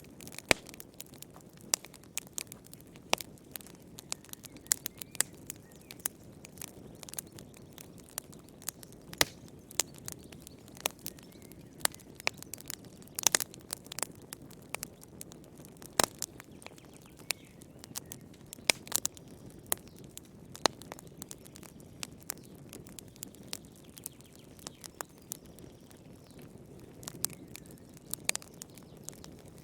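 Fireplace fire crackling: irregular sharp pops and snaps, some clustered, over a steady soft low hiss of the flames.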